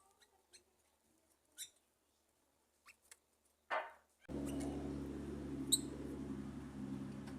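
Scattered short, high chirps and ticks of small birds, then about four seconds in a steady low hum with a rushing noise starts abruptly and carries on, louder than the chirps.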